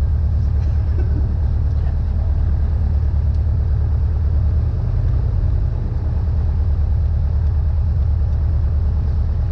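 Cessna 172N's four-cylinder Lycoming O-320 piston engine running steadily as a deep low drone, its note shifting briefly about five seconds in.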